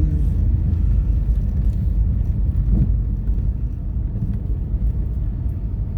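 Car driving on plowed, snowy town streets, heard from inside the cabin: a steady low rumble of engine and tyres.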